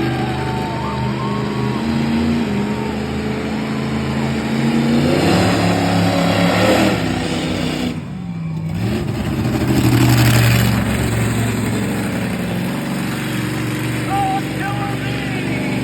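Monster truck engine running loudly and revving, its pitch climbing hard about five seconds in, dropping off sharply around eight seconds, then surging again.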